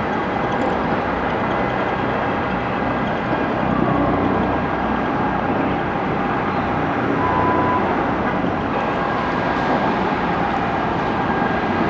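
Steady outdoor urban noise of vehicles and engines, with a brief faint tone about seven seconds in.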